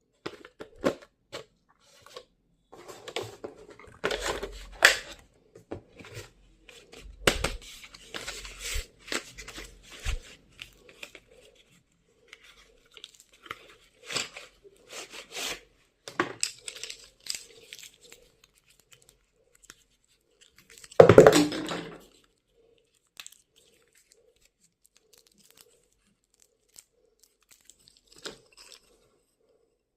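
Stationery packaging being torn open and handled, in irregular bursts of tearing and rustling, the loudest lasting about a second about two-thirds of the way through.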